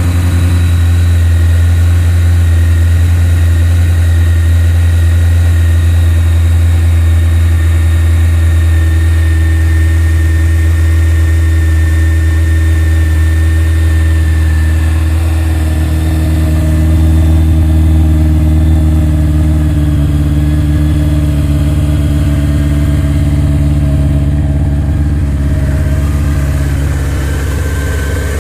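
2002 Honda CBR600F4i's fuel-injected inline-four idling steadily while warming up from a cold start.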